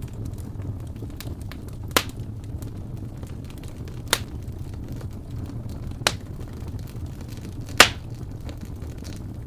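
Fire crackling in a fireplace over a steady low rumble, with many small crackles and four loud sharp pops about two seconds apart.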